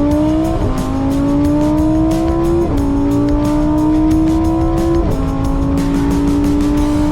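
Car engine accelerating hard through the gears. Its note climbs steadily in each gear and drops sharply at three upshifts: about half a second in, near three seconds, and about five seconds in.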